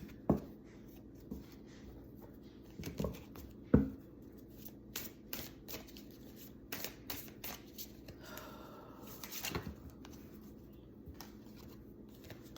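A deck of tarot cards being shuffled by hand: irregular soft card taps and slides, with two sharper knocks, one just after the start and one a little under four seconds in.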